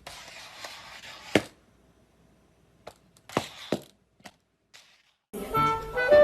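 Two stretches of rustling noise, each with sharp knocks: one about a second and a half in, two more a little later. Music starts near the end.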